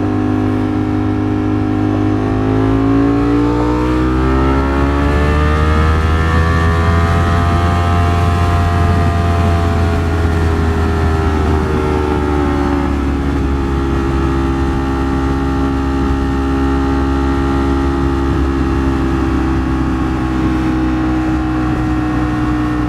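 Ducati Streetfighter V4 S's V4 engine under a heavy rush of wind, heard from the rider's helmet mic. The revs climb for a few seconds, hold, then ease back and settle to a steady cruise.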